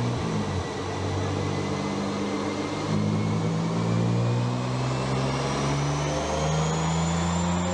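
Motor vehicle engine running, its note shifting up and down, with a thin whine that rises slowly in pitch and the engine note climbing near the end.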